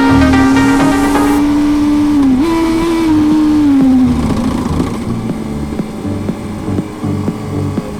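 Yamaha FZ1 Fazer's R1-derived five-valve inline-four, through a Beams slip-on muffler, running at high steady revs. About two and a half seconds in the revs jump up sharply, then fall away as the bike slows. In the second half it runs quieter at a lower steady pitch.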